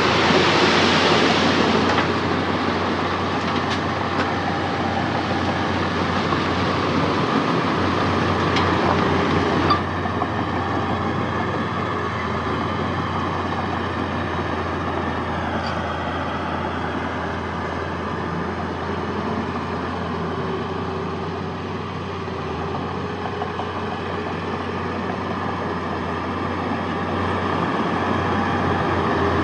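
Heavy diesel earthmoving machinery, a bulldozer or dump truck, running steadily at work, with a sudden change in the sound about ten seconds in.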